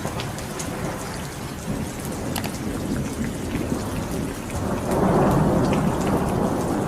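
Heavy rain pouring down, with a dense hiss and scattered sharp drop impacts; it grows louder a little past halfway.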